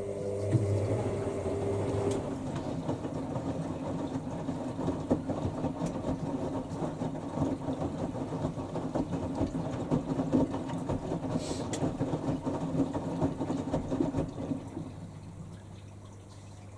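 Fisher & Paykel WM1490F1 washing machine on an intermediate spin: a steady motor and drum rumble with constant light rattling. It dies down about 15 seconds in.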